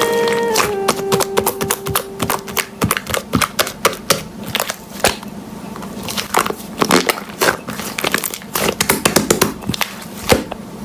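Slime being pressed and played with by hand, making many irregular sharp clicks and crackles. The last held notes of background music fade out over the first few seconds.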